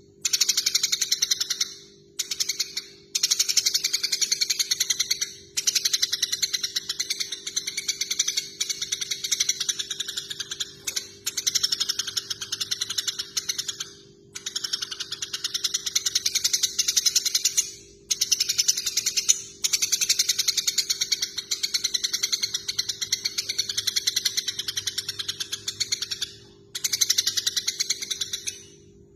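Eurasian tree sparrows chattering in fast, dense runs of chirps, the harsh calls of sparrows fighting, each run lasting a few seconds and broken by brief pauses. A steady low hum runs underneath.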